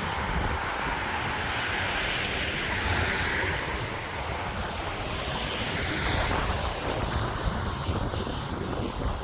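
Wind buffeting the microphone over a steady hiss of traffic on a wet, slushy road, the hiss swelling and easing as a vehicle goes by a few seconds in.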